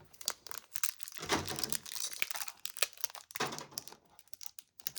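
Foil wrapper of a Pokémon TCG booster pack crinkling as it is handled, a dense run of sharp crackles that thins out near the end.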